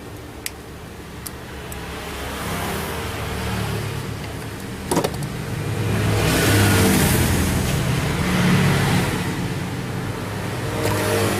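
A small engine running and being revved up and down twice, with a few light clicks near the start and a sharp knock about five seconds in.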